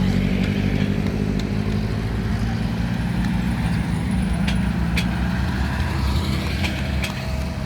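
Car engine running at low revs: a steady low drone, with a few brief sharp clicks over it.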